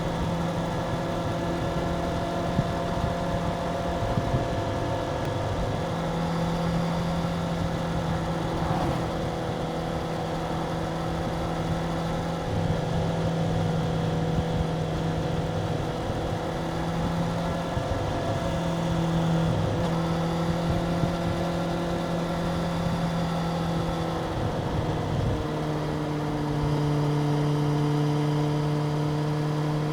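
Stock Suzuki GSX-R750's 750 cc inline-four engine with its factory exhaust running steadily at a held speed. About 25 seconds in, the note shifts lower and gets slightly louder.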